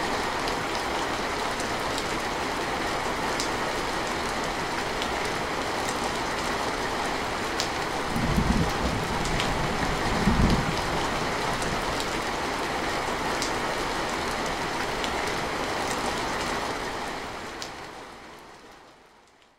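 Heavy rain falling steadily on a metal roof, with scattered sharp drop ticks. Two brief low rumbles of thunder come about eight and ten seconds in. The rain fades out over the last couple of seconds.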